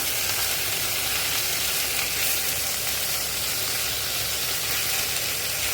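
Chicken, mushroom and onion sizzling steadily in hot oil in a frying pan.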